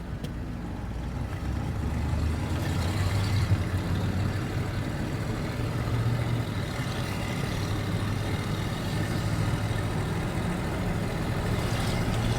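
Engine and road noise of a square-body 2500 4x4 pickup under way, heard from inside the cab as it drives steadily along a town street.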